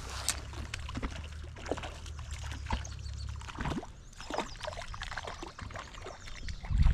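Small water splashes and trickles at the lake's edge, with scattered light clicks and a low wind rumble on the microphone during the first few seconds.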